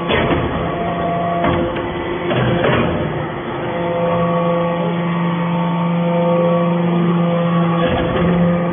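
Hydraulic metal-shavings baler running: a steady machine hum with a few short clanks, the hum growing stronger about four seconds in as the press works.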